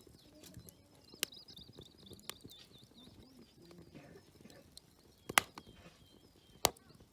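Wood campfire crackling, with four sharp pops, the two loudest a little past the middle and near the end. Birds chirp faintly in the background.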